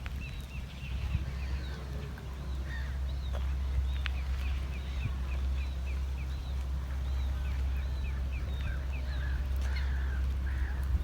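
Small birds singing: many short chirps and a run of quick repeated notes, about three or four a second, through the middle, over a steady low rumble.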